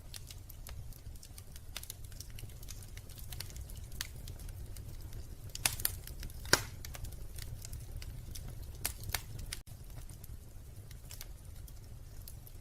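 Wood fire crackling in a fireplace: a steady stream of small sharp crackles with a few louder pops, over a steady low rumble.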